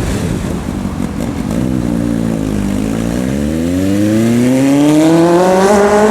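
A sport motorcycle engine accelerating. Its note dips briefly, then climbs steadily and grows louder over the last few seconds.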